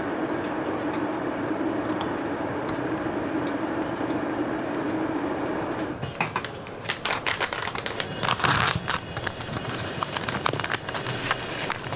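A steady hum with a low held tone for about six seconds stops abruptly, followed by a run of irregular crackling and crinkling clicks.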